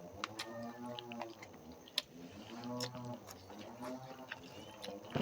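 A cat meowing three times, each call rising and falling in pitch and lasting under a second, with sharp clicks of chewing and eating in between.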